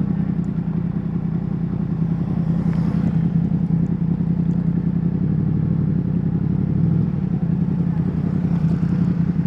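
Yamaha MT-10's crossplane inline-four engine idling steadily.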